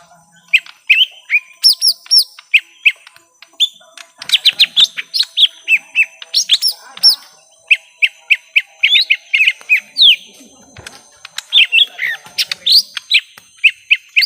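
Young lesser green leafbird (cucak ijo mini) giving its fighting call: rapid runs of short, sharp rising chirps in bursts separated by brief pauses.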